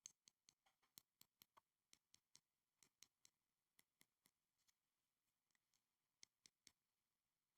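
Soft, close-up clicks and taps on small school supplies, irregular and a few a second, with a short pause partway through.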